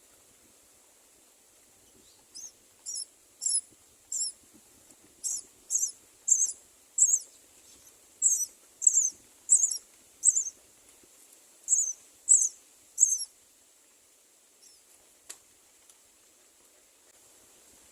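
A bird giving a series of short, high-pitched chirps, about seventeen in all at roughly two a second, in loose groups that stop about three-quarters of the way through. A single faint click follows.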